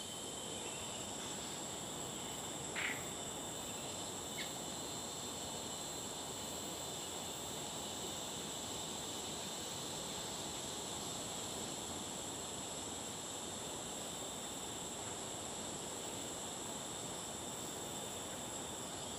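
Steady, continuous high-pitched insect chorus of tropical rainforest, with two short sharp notes about three and four and a half seconds in, the first the loudest.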